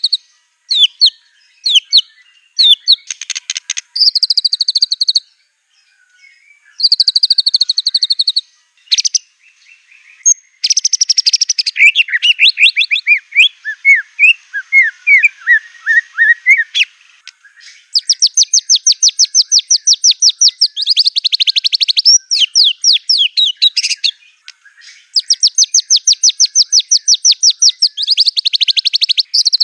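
White-rumped shama (murai batu) singing loudly in varied phrases of short whistles, sweeps and chattering notes, then long fast trills of rapidly repeated notes in the second half, with short pauses between phrases.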